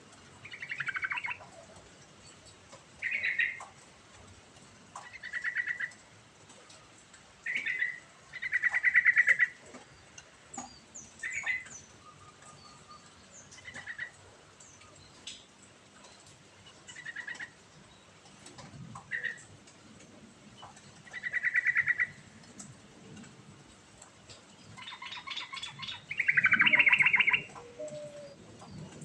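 Yellow-vented bulbul (trucukan) singing in full voice: short, bubbly phrases repeated every second or two, the last and longest one loudest.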